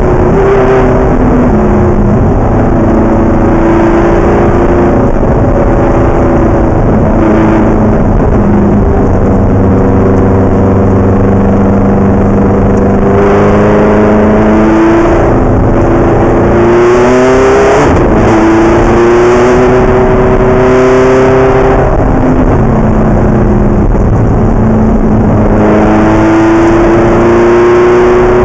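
Ferrari race car engine running hard and loud, its pitch climbing under acceleration and dropping back again and again as it works through the gears.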